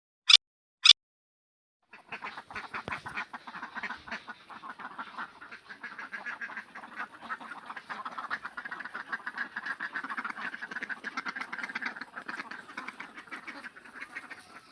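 A flock of ducks quacking continuously in a dense, rapid chatter of overlapping calls, starting about two seconds in. Just before it, in the first second, come two short, sharp, loud calls from a different animal.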